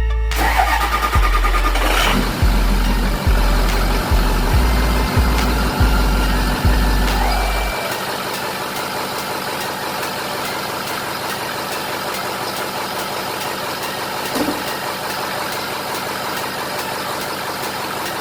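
Background music with a heavy pulsing bass for the first half, then the 6.0 Powerstroke V8 turbo-diesel running at a steady idle.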